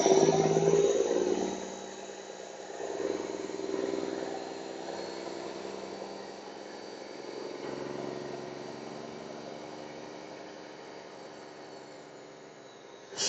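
Straight-piped Detroit Diesel 12.7-litre (Series 60) engine of a Freightliner Classic XL semi truck running at low speed. It is loudest in the first second and a half, swells again briefly about three and eight seconds in, and then settles lower.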